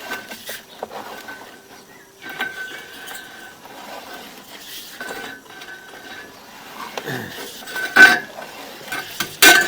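Metal clinking and rattling, with short high ringing notes and two loud sharp clanks near the end.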